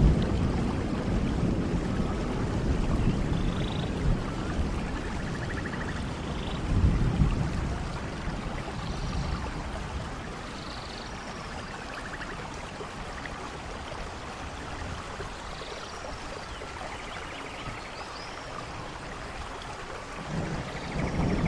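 Steady rainfall in a rainforest, with low thunder rumbles that swell near the start, about seven seconds in and again near the end. Scattered short high chirps of wildlife sound over the rain.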